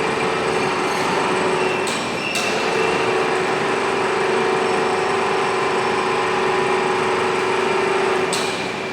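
Copper melting furnace running with a steady loud rushing noise and a steady hum tone, broken by two sharp knocks about two seconds in and another near the end.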